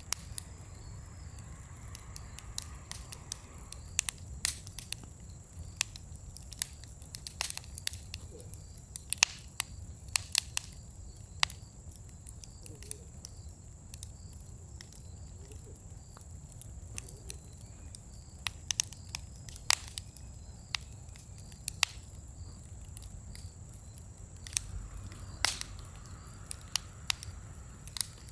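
Scrap-wood bonfire in a fire pit crackling, with irregular sharp pops and snaps over a steady low rumble.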